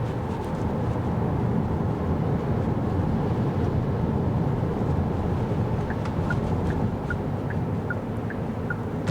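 Steady road and tyre rumble heard inside the cabin of a Kia Carnival Hybrid minivan while driving. About two-thirds of the way in, the turn-signal indicator starts ticking in an even rhythm of roughly two to three ticks a second, alternating between two pitches.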